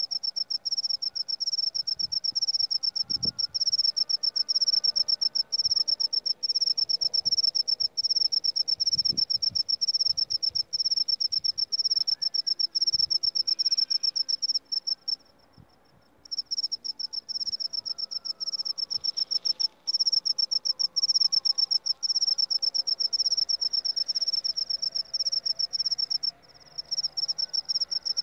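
Seliring cricket singing: a loud, high-pitched, rapidly pulsed chirping song, broken by a pause of about a second around the middle and a couple of shorter pauses later.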